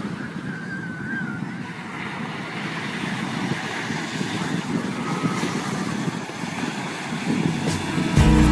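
Steady outdoor rumble of wind buffeting the camera microphone, mixed with beach surf, with a short wavering whistle about a second in. Acoustic guitar music starts near the end.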